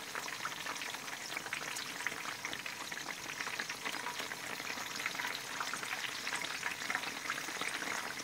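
Shami kebabs deep-frying in a wok of hot oil: a steady, dense crackling sizzle of many small pops.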